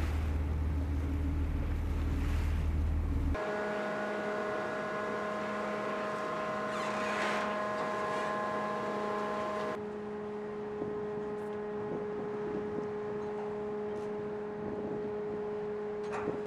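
Wind buffeting the microphone with a low rumble by the water, then after an abrupt cut a steady machinery hum of several even tones over a hiss, changing pitch at a second cut about ten seconds in.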